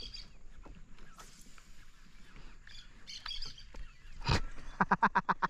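Birds calling: scattered short, high chirps, then a rapid run of clipped, evenly spaced notes near the end. A single sharp knock comes just before that run.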